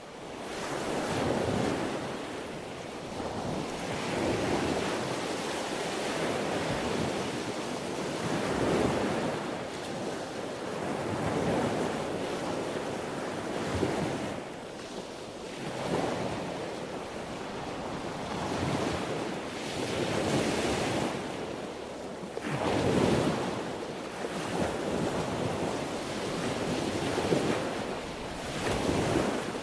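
Sea waves washing onto a shore: a continuous rush of surf that swells and falls back every two to three seconds.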